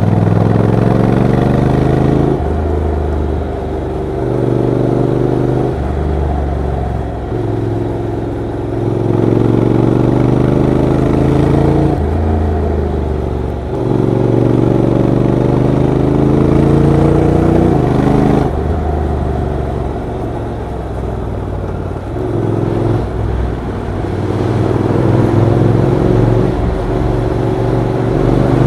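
Honda NC750X parallel-twin motorcycle engine accelerating: its pitch climbs for a few seconds, then drops at each gear change, again and again, with the dual-clutch gearbox shifting up.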